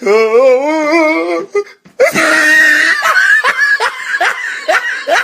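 A person laughing hard: a long wavering laugh, a brief pause, a loud shrieking laugh, then a run of quick 'ha-ha' bursts.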